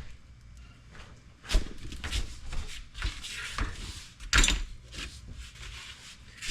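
Irregular knocks and clatters of hand tools and metal parts being handled and set down, with a sharp clatter about four and a half seconds in.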